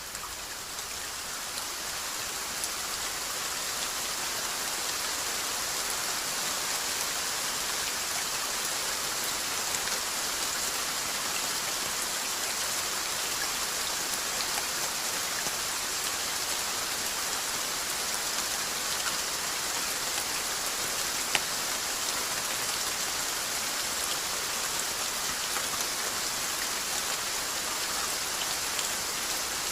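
Steady rainfall: a dense, even hiss of rain pattering on a surface. It dips briefly at the start and swells back within a couple of seconds. One louder drop or tick stands out about two-thirds of the way through.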